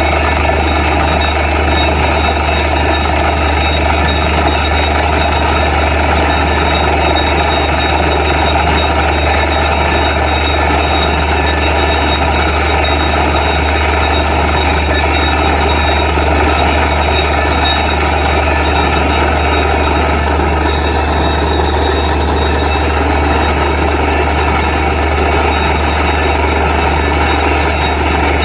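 Borewell drilling rig's engine running steadily, a loud continuous drone with a strong low hum that does not change.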